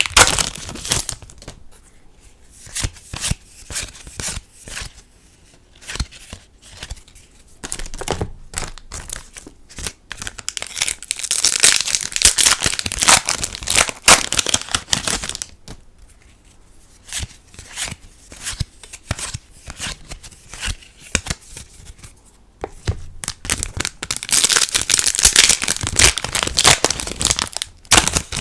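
Foil trading-card booster packs being crinkled and torn open, in three long loud stretches, with quieter light clicks and taps of cards being handled in between.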